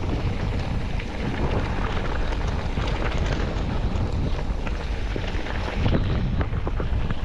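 Wind buffeting the microphone: a loud, steady rumbling noise with crackling gusts.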